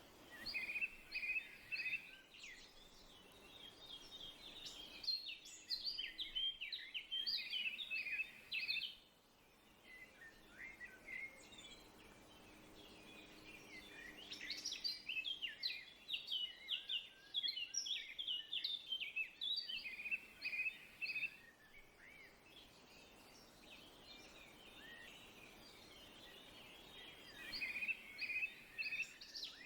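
Songbirds chirping in bursts of rapid high chirps and short trills, with quieter stretches between the bursts.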